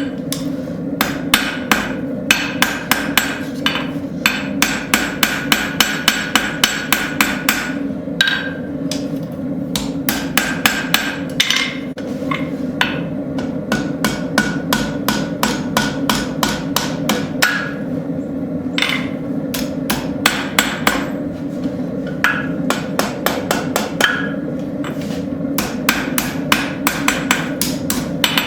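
Rounding hammer striking hot railroad-spike steel on an anvil in quick runs of about three to four blows a second, with short pauses between runs, each blow ringing briefly. A steady drone runs underneath.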